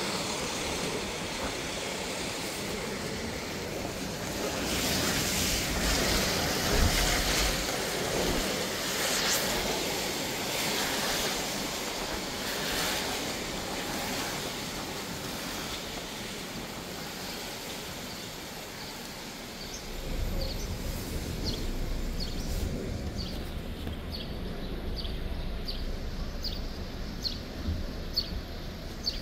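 Heavy rain, a steady hiss that swells for a few seconds early on. About two-thirds of the way through, a low vehicle rumble comes in, and near the end there is an evenly spaced run of short high ticks.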